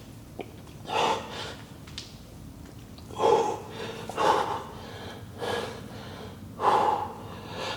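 A weightlifter breathing hard and forcefully under a heavy front squat load: five loud, sharp breaths about a second apart, at the rate of the reps.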